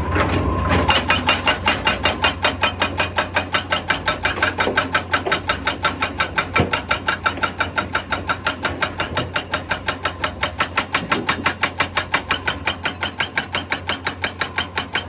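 Hydraulic rock breaker on a JCB excavator hammering rock, a steady rapid pounding of about five blows a second that starts about a second in.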